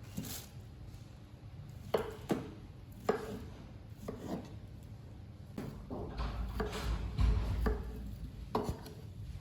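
A series of irregular sharp knocks and clicks of hard objects, some with a brief ring, with low bumps in between.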